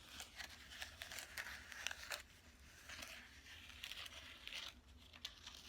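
Faint, irregular scraping and rustling of a spoon stirring an edible slime mixture of powder and water in a bowl.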